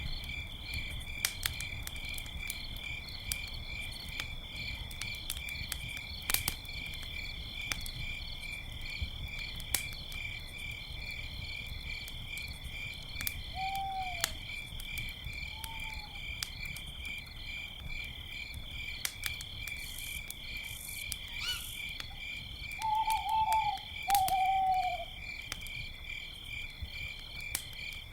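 Crickets chirping steadily in two high, pulsing tones, with a campfire crackling and popping every second or so. An owl hoots a couple of times around the middle and gives a louder run of hoots near the end.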